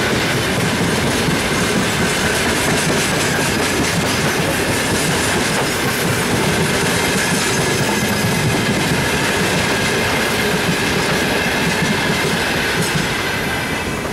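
Freight train of gondola wagons rolling past close by: a steady loud rumble and clatter of steel wheels on the rails, with a faint thin wheel squeal. The noise eases a little near the end as the last wagons go by.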